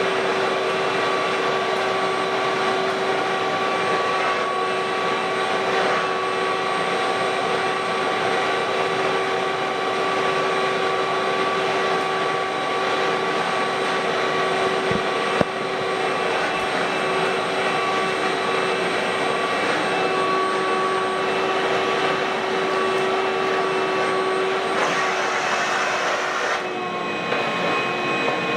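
Ridgid WD1450 wet/dry shop vacuum running steadily with a motor whine and a rush of air. The hiss rises for a couple of seconds near the end, then drops back.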